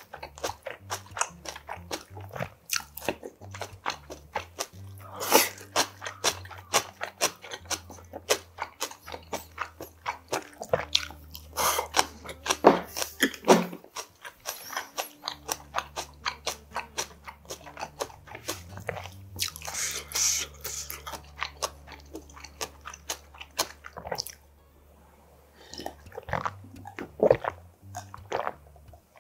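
Close-miked eating of spicy sea snail salad (golbaengi muchim) with somen noodles: wet chewing, biting and slurping with short sharp clicks throughout. Swallowing a drink from a glass near the end.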